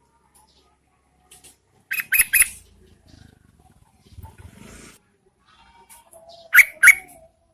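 Yellow-vented bulbul calling: a quick run of three loud, sharp notes about two seconds in, then two more loud notes near the end.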